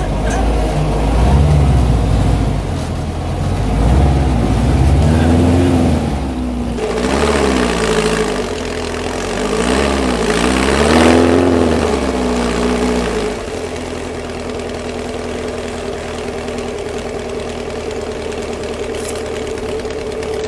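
VW Baja Bug engine revving up and down again and again while driving a dirt trail, then running at a steady pitch for the last third.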